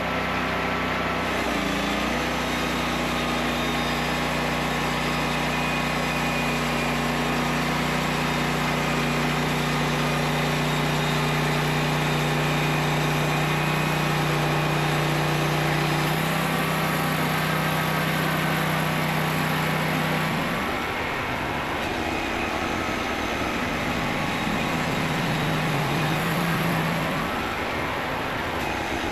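Small engine of a homemade sawmill, running steadily through a centrifugal go-kart clutch. Its pitch shifts about halfway through, and a few seconds later the steady hum gives way to a rougher, noisier sound.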